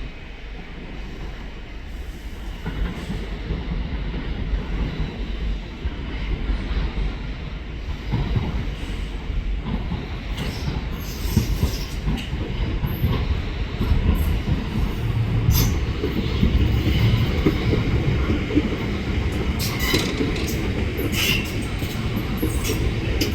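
A passenger train running into the station, growing steadily louder as it approaches. From about halfway on, short high wheel squeals come more and more often, with the most near the end.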